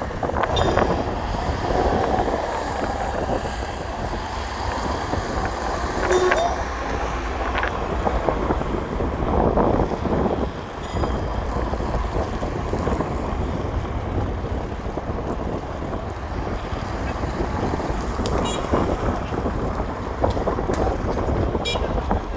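Strong wind buffeting the microphone, a continuous low rumbling rush.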